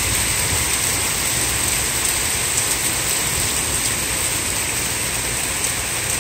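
Heavy rain pouring down onto the street and pavement, a steady, even hiss.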